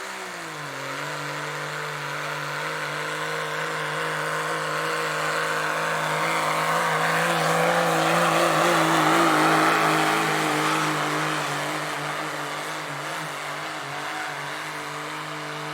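Turbo diesel pickup running hard under full load while pulling a weight sled. The engine note sags a little in the first second as the load comes on, then holds nearly steady at high revs. The sound grows louder to a peak around the middle and then fades somewhat as the truck goes by.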